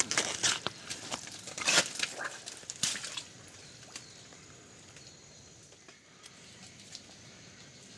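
Rustling and crackling of dense jungle undergrowth being pushed or cut through, a rapid run of sharp noises for about three seconds. It then drops to a quiet background with a faint steady high-pitched tone and a few isolated ticks.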